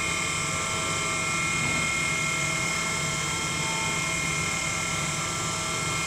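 Mazak FH-12800 horizontal machining center's spindle running at a steady 9000 rpm during a spindle warm-up test. It gives a steady whine of several high tones over a low machine hum.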